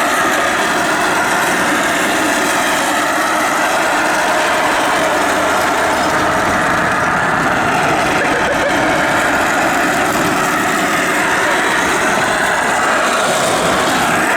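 Car engine running with steady, unbroken road noise.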